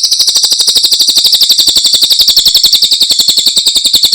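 Cililin songbird singing a loud, rapid trill of about a dozen high notes a second, sinking slightly in pitch.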